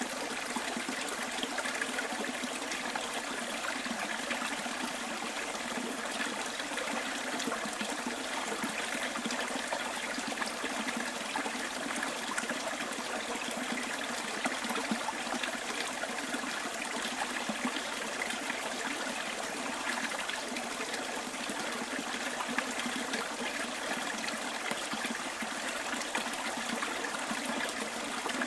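Stream water flowing and trickling steadily, a light, even rushing with little deep rumble.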